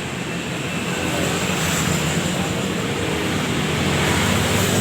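A motor vehicle engine running steadily, a low hum under a broad hiss, growing slightly louder near the end.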